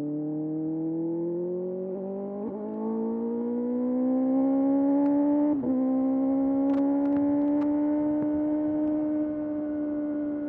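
Kawasaki ZX-6R's inline-four engine pulling under acceleration, its pitch climbing steadily with a brief dip at an upshift about two and a half seconds in and another about five and a half seconds in, then holding a steady note.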